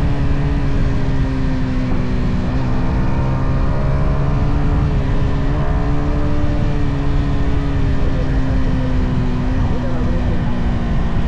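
Yamaha XSR 155's stock single-cylinder engine running at a steady cruise, its pitch nearly level with a few slight dips and recoveries, with wind rushing over the microphone.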